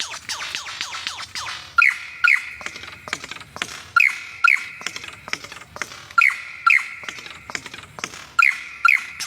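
Wild birds calling: a loud two-note call repeats four times, about every two seconds, over a busy background of quick, short chirps.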